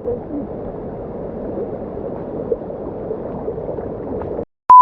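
Muffled, steady rushing noise with faint wavering tones in it. It cuts off abruptly near the end, and after a brief silence a loud, steady beep of a censor bleep begins.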